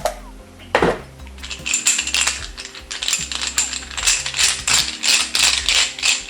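Steel cylinder-head bolts and their washers clinking together as they are handled, a fast, irregular run of sharp metallic clicks with a ringing tone, starting about a second and a half in. A single brief swish comes just before.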